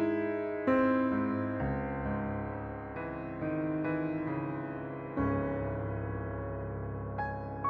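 Slow, soft piano music: sustained chords, with a new chord struck every second or two and left to ring.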